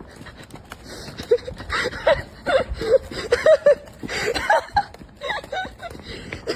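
Men's voices shouting and laughing in short bursts, over scattered knocks and scuffling.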